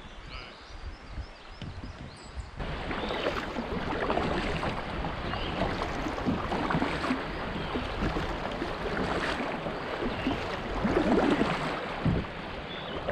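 River water rushing and splashing around a kayak on a shallow, moving river. The sound jumps louder about two and a half seconds in.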